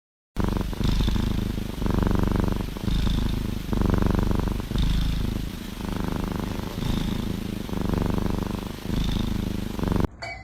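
Domestic cat purring, a low rumble that swells and fades in cycles of about a second. It stops abruptly near the end.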